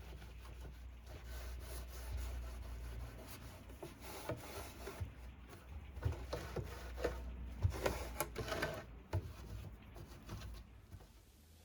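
Wood being rubbed by hand in irregular strokes, with scattered knocks and clicks as the piece is handled.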